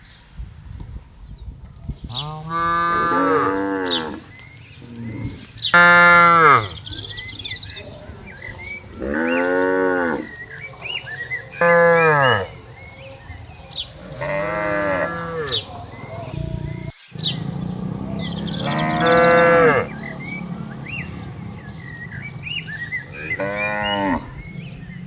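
Cows mooing, about seven long moos a few seconds apart, each a pitched call with many overtones that bends down in pitch at its end.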